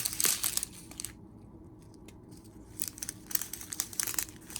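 Small plastic bags of diamond painting drills crinkling and rustling as they are handled, in two spells with a pause of about two seconds between them.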